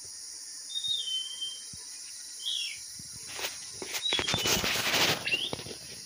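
Short whistled bird calls, a few quick notes at intervals, over a steady high drone of insects. About three and a half seconds in comes rustling and scuffling, loudest from about four to five seconds in.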